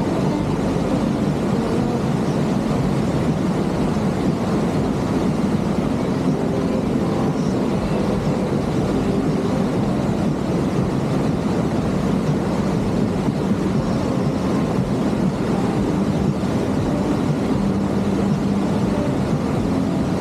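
Steady rushing noise of a boat underway on a lake: water and wind buffeting the microphone, with a faint low hum.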